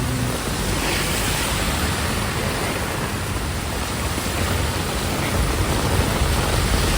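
Heavy tropical downpour: rain pouring with a loud, steady hiss. A low vehicle engine hum comes in near the end.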